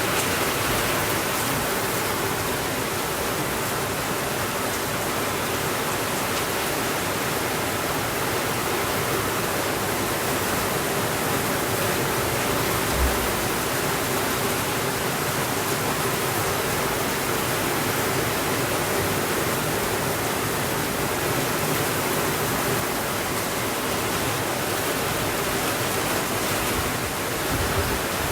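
Steady, even rainfall, a dense hiss without change. One brief, soft low thump about halfway through.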